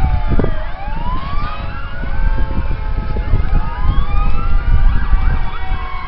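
Several fire truck sirens wailing at once, their pitches rising and falling out of step with each other, over a heavy low rumble.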